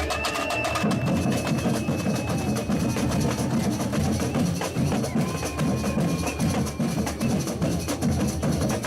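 Batucada samba percussion ensemble playing a fast, dense rhythm, the low drums coming in heavily about a second in, with a long high held tone over the drumming.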